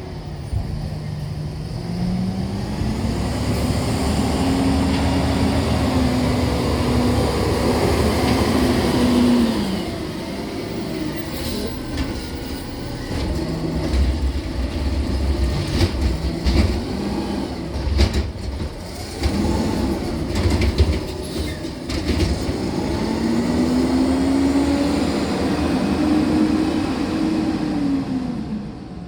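Garbage truck engine revving up to drive its hydraulics, holding a higher pitch for several seconds and then dropping back. This happens twice, with a run of metal clanks and knocks in between, typical of a bin being lifted and emptied into the hopper.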